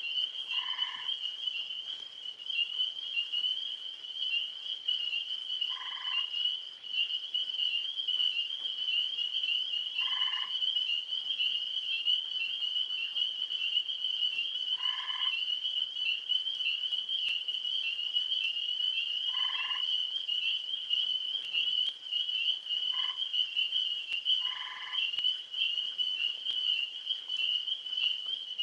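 Tree frogs calling at night: a steady high-pitched trilling chorus, with a louder, short frog trill repeating every four to five seconds, seven times.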